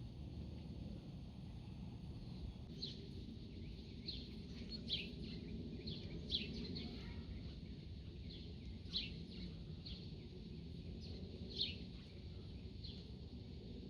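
Small birds chirping: about a dozen short, sharp chirps at irregular intervals, over a steady low rumble.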